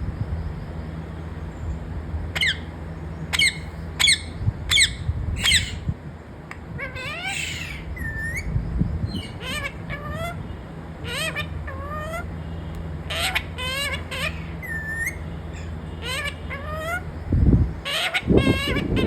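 Parrot calling: a run of five short, sharp squawks, then a series of rising and falling whistled calls, over a steady low hum.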